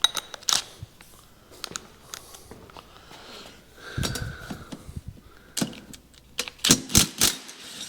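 Scattered metallic clicks and clinks of hand tools and small bike parts being handled, with a cluster of louder sharp knocks near the end.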